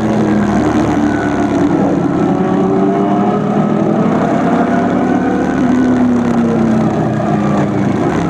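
Suzuki SV1000S's 90-degree V-twin engine running through an aftermarket LeoVince SBK exhaust while riding, its note drifting gently down and back up.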